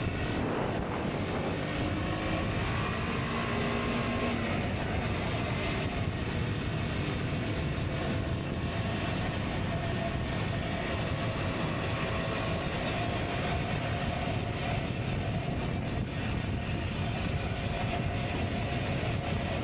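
KTM Duke 125's single-cylinder engine running at a steady cruise on the move, mixed with wind and road noise.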